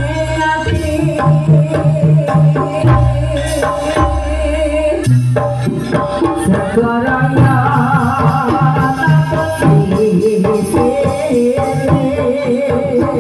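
Live jaranan (kuda lumping) ensemble music: kendang hand drums beat a steady rhythm under a wavering melody line, with some singing.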